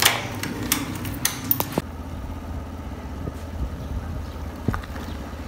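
A few sharp clicks and knocks, then, about two seconds in, the steady low hum of a Suzuki motorcycle engine idling.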